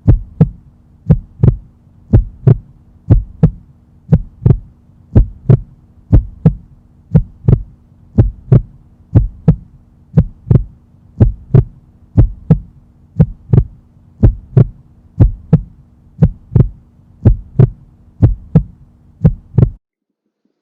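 Heartbeat sound effect, a steady lub-dub double thump about once a second over a low steady hum. It cuts off suddenly near the end.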